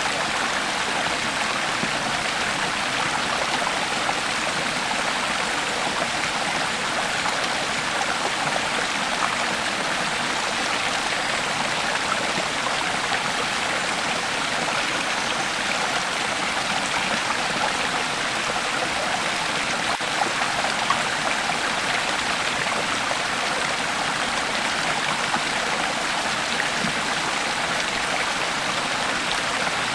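Creek water flowing steadily over rocks, a constant rushing and babbling.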